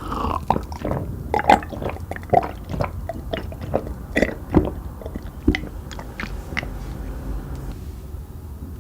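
Irregular wet squishing and crackling of food being worked, with many close, uneven clicks that thin out after about seven seconds.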